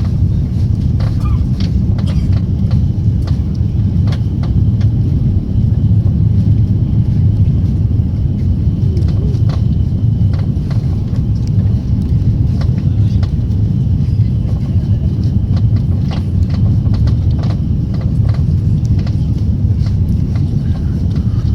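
Steady, loud low rumble inside the passenger cabin of an Airbus A340-300 airliner during its arrival, with scattered small clicks and rattles.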